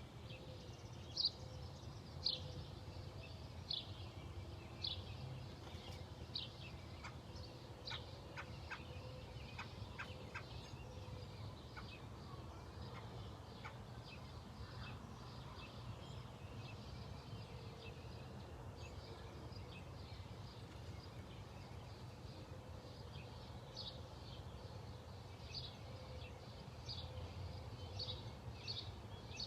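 A bird calling outdoors: a short, high, falling note repeated about once a second, pausing in the middle while a quick run of brief chips sounds, then resuming near the end, over a faint steady low rumble.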